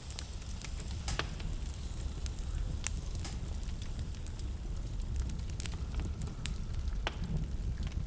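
Wood fire burning in a fireplace: a steady low rumble of flames with scattered sharp crackles and pops, a few louder snaps about a second in, near three seconds and near seven seconds.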